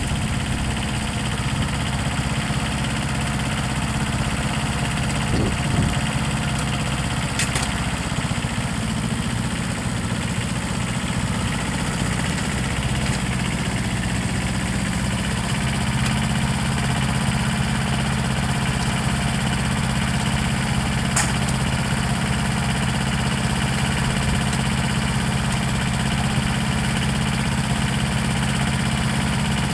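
An engine idling steadily: an even, unchanging low hum.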